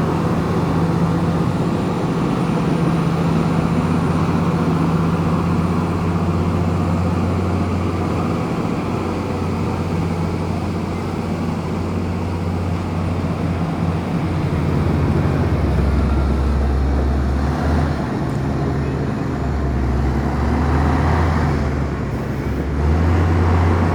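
Komatsu bulldozer's diesel engine running steadily while it works, its low note shifting about two-thirds of the way through as the load changes.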